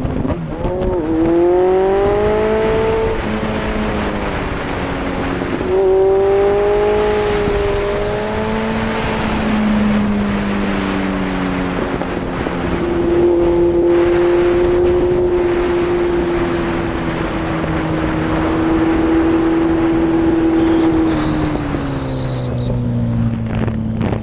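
Yamaha XJR1300's inline-four engine under way, its note climbing in pitch twice with a drop between, then holding steady for several seconds before falling away near the end as the bike slows, with wind noise over it.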